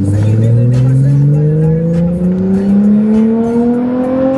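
Porsche 992 GT3's naturally aspirated 4.0-litre flat-six accelerating hard, its revs rising steadily through one long pull in a single gear.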